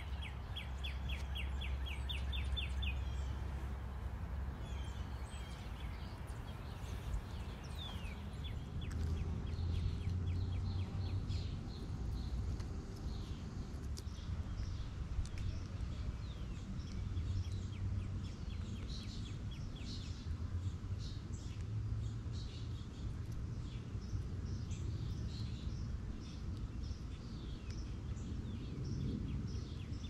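Backyard songbirds chirping and calling: a quick run of repeated chirps in the first few seconds, then scattered short high calls, over a steady low rumble.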